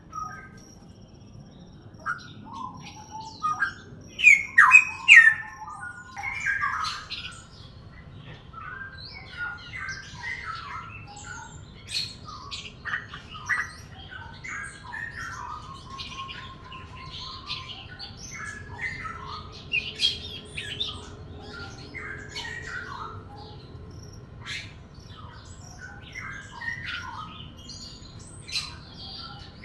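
Songbirds chirping and calling, a busy run of short, varied chirps and squawks, loudest in a burst about four to six seconds in.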